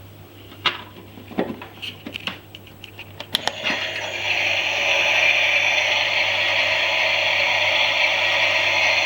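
Toy washing machine: a run of sharp clicks and knocks, then about four seconds in a steady whirring noise starts up and holds, over a low constant hum.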